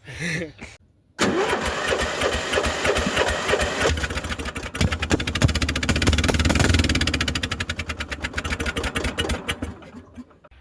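Polaris Trail Boss 350L ATV engine running under throttle, a rapid firing beat that builds to its loudest about two-thirds of the way through, then eases off and stops near the end.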